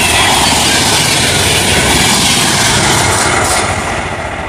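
Express train of LHB passenger coaches passing through a station at about 130 km/h: a steady, loud rushing roar of wheels on rail and moving air. It eases off a little near the end.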